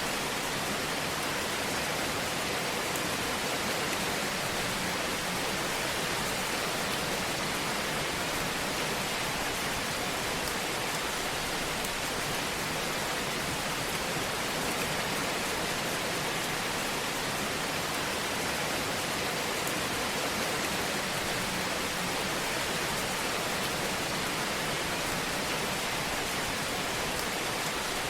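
Wood fire crackling in a fireplace: a steady, even hiss of fine crackles with no breaks.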